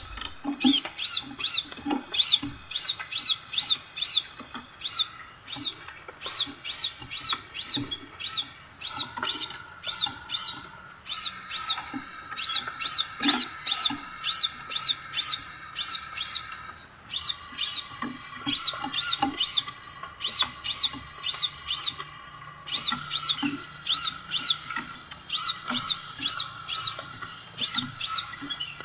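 Scarlet minivet song: quick runs of short, high, sharp whistled notes, several a second, repeated in bursts, with a fainter steady trill lower down beneath them.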